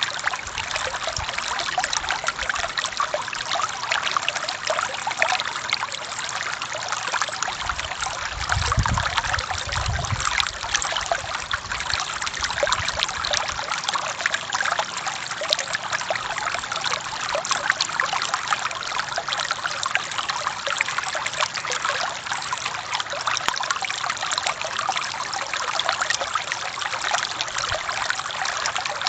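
Forest stream flowing and trickling over rocks in a steady, even rush of water, with a few soft low rumbles about a third of the way in.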